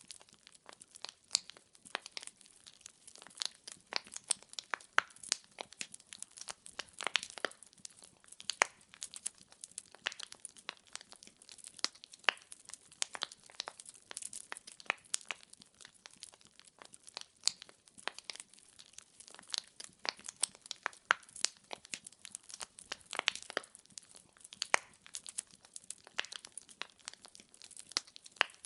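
Burning firewood crackling: many sharp, irregular pops and snaps, several a second, over a faint steady hiss.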